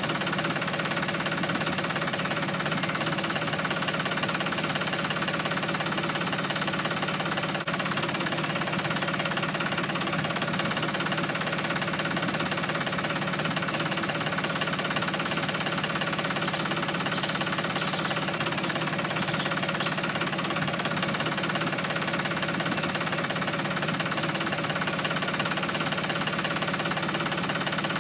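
Small tractor engine running steadily with an even, chugging beat.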